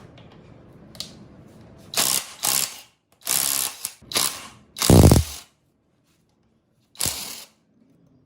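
Ratchet wrench clicking through about six short strokes, the loudest about five seconds in.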